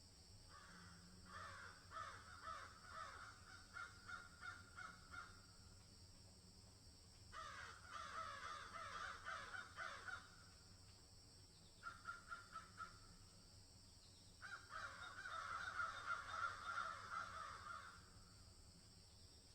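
Birds calling in four bouts of rapid, repeated calls, with pauses of a second or two between bouts. The longest and loudest bout comes near the end.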